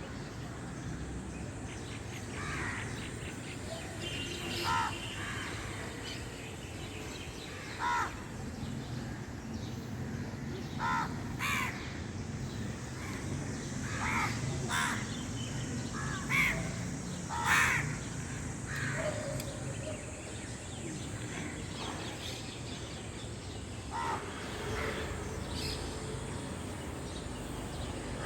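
Birds calling outdoors: about a dozen short calls scattered irregularly, over a steady background hiss.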